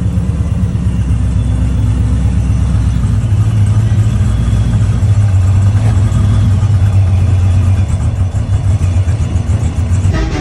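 Vehicle engine running at low revs with a steady, deep rumble.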